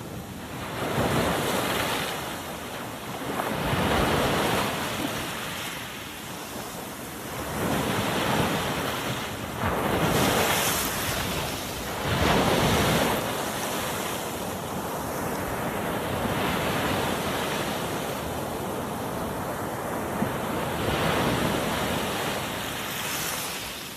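Sea waves breaking and washing on the shore, the surf swelling and falling back every few seconds, with wind on the microphone.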